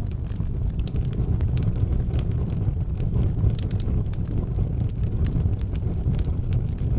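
Wood fire burning in an outdoor fireplace: a steady low rumble of the flames with frequent small sharp crackles and pops from the burning wood.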